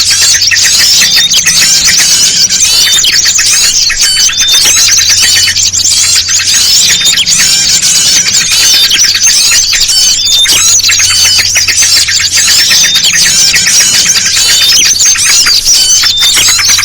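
Dense, continuous chorus of agitated small songbirds: rapid overlapping chirps, trills and squeaky calls, mixing yellow-vented bulbul (trucukan) calls with other small birds. It is a bird-luring (pikat) recording made to draw wild small birds in. A faint steady low hum runs underneath.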